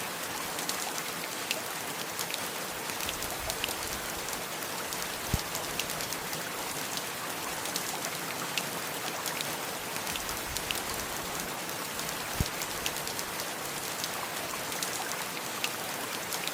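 Steady heavy rain, an even wash of falling water dotted with many distinct drop ticks. Two louder single hits stand out, about five seconds in and again about twelve seconds in.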